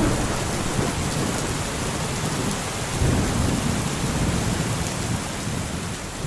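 Steady heavy rain with low rolling thunder, a rumble swelling up about three seconds in.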